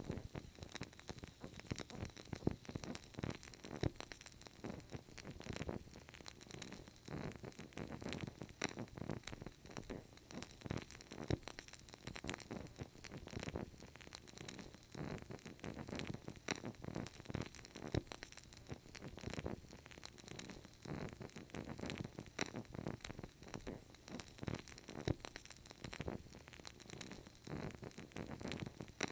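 Burning candle crackling: a dense, steady stream of tiny pops and clicks from the flame and wick.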